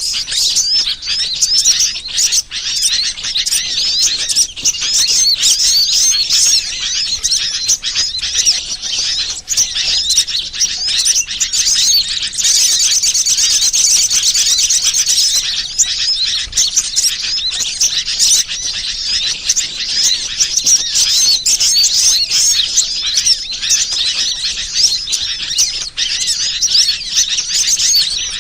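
Dense, unbroken chorus of many small birds chirping and trilling, high-pitched and overlapping: a bird-lure (pikat) recording played to attract wild birds.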